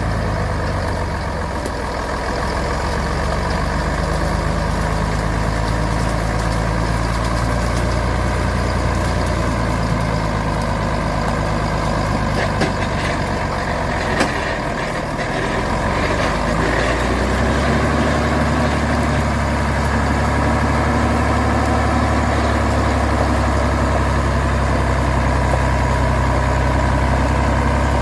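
Truck engine running steadily. Its note shifts about 17 seconds in and then holds at an even pitch. A couple of brief knocks come around 13 and 14 seconds.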